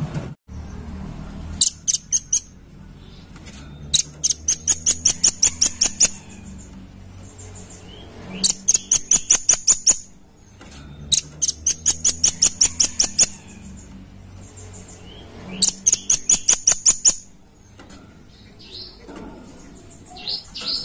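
Velvet-fronted nuthatch (red-billed nuthatch) calling: rapid runs of sharp, high chips, about ten a second, each run lasting one to two seconds and repeated every few seconds.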